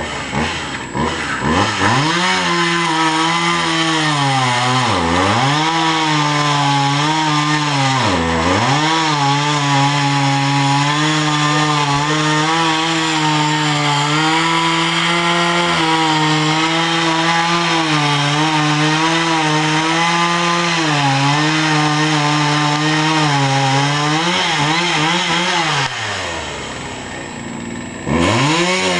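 Two-stroke chainsaw running at high revs while cutting wood. Its pitch sags and recovers sharply twice, about five and eight seconds in, then drops to idle for about two seconds near the end before revving back up.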